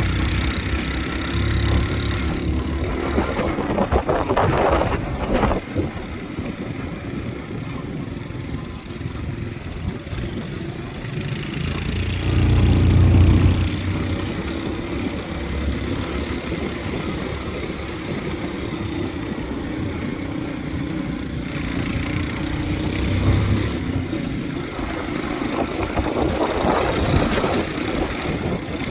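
Motorbike engine running steadily while riding, with a louder low rumble about twelve to fourteen seconds in.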